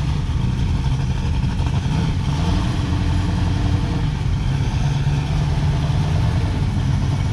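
Engines of cars driving slowly past at low revs, a steady low running with a few slight rises in pitch as the cars pull away.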